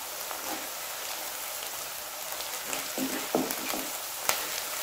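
Sliced onions and crushed garlic sizzling steadily in hot oil in a pot, with a few knocks of a wooden spatula against the pan as they are stirred, about three seconds in and again near the end.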